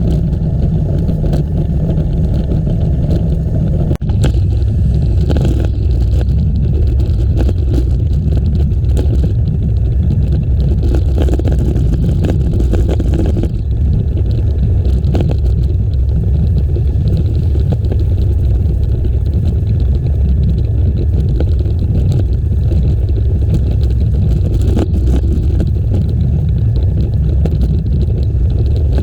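Steady low rumble of wind buffeting the microphone of a camera riding along on a moving bicycle, with scattered light clicks.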